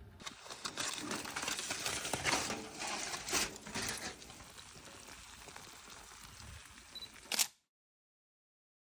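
Rustling, crackling noise with irregular sharp clicks, loudest for the first four seconds and then quieter. A sharp click comes about seven seconds in, then the sound cuts off to dead silence.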